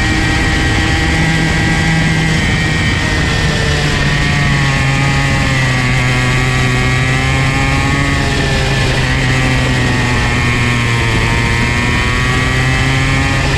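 Comer C50 two-stroke go-kart engine running loud and buzzy, its pitch dropping and climbing again several times as the throttle is eased and reopened.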